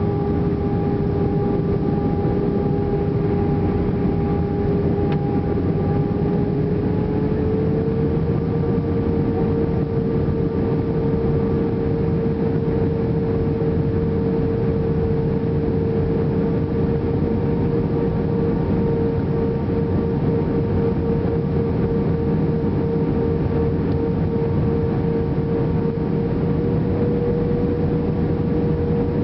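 Airbus A320 jet engines and airflow, a steady roar as heard inside the cabin on approach to landing. A steady engine hum runs through it and steps up slightly in pitch about eight seconds in, as the engine power changes.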